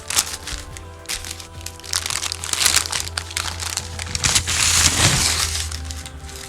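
Sandwich wrapping crinkling and crackling as it is handled and unwrapped, busiest and loudest from about two seconds in, over background music.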